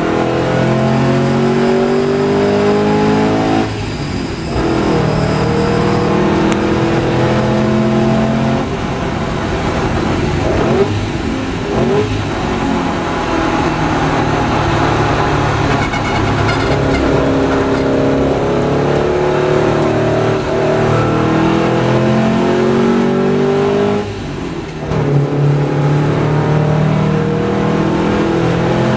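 Porsche 550 Spyder's air-cooled flat-four engine under hard acceleration on a track. Its pitch climbs and drops back at each gear change several times, with brief lifts off the throttle about four seconds in and near the end, over steady wind rush in the open cockpit.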